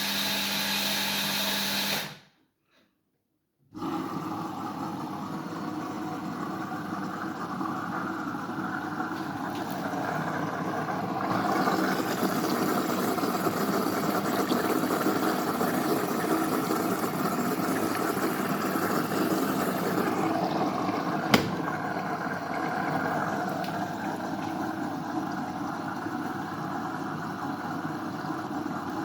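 Siemens iQ700 front-loading washing machine running its fabric-softener rinse, a steady mix of motor hum and water sloshing in the drum. The sound cuts out briefly about two seconds in, and there is one sharp click later on.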